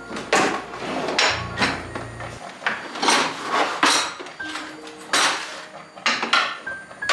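Kitchen handling sounds: a string of about ten knocks and clinks of dishes and utensils being picked up and set down, some ringing briefly.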